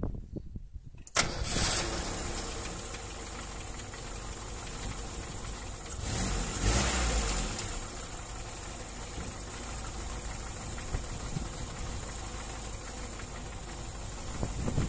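VAZ 2103 (Zhiguli) four-cylinder engine starting about a second in and then idling, with a brief rev around six to seven seconds in; the valves have just been adjusted.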